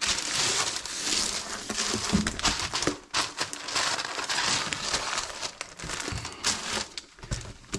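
Masking material crinkling and rustling as it is handled and worked into place, with uneven crackles and short pauses.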